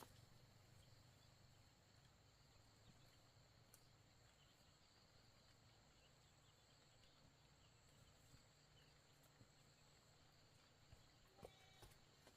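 Near silence: faint steady outdoor background with a low hum and a thin high hiss.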